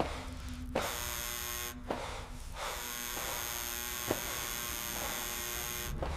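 A steady electric buzz with a few short clicks.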